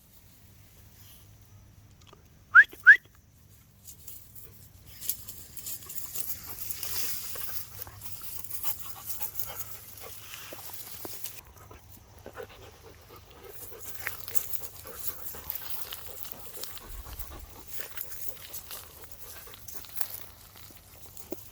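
Dog giving two short, sharp, high-pitched yelps in quick succession about two and a half seconds in, followed by a long stretch of rustling and scuffling with small clicks.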